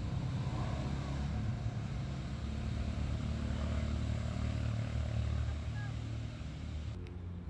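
A motor vehicle's engine running: a steady low hum that fades away near the end.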